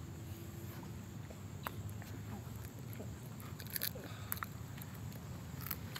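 A person chewing a mouthful of food close to the microphone: scattered short wet clicks and smacks of the mouth over a low steady background hum.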